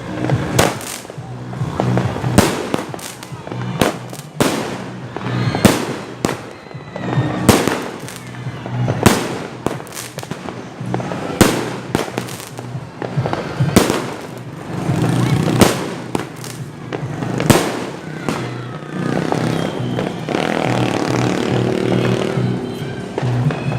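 Fireworks going off: a string of loud, sharp bangs at irregular intervals, often one or two a second, with a denser, steadier stretch near the end.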